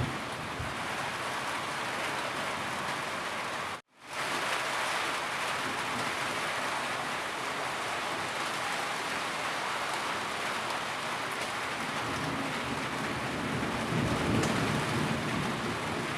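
Steady heavy rainfall, an even hiss of rain on surfaces. Just under four seconds in it cuts out abruptly to silence and returns a moment later, and near the end it swells with a deeper low rush.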